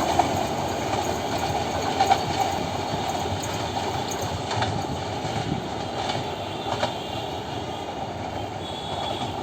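Meter-gauge train rolling past on the rails: a steady rumble of wheels with scattered clacks over the rail joints, slowly getting quieter.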